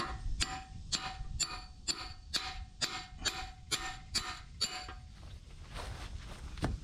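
A hammer striking a steel backhoe bucket pin to drive it out, about ten blows at a steady two a second, each with a short metallic ring; the blows stop about five seconds in.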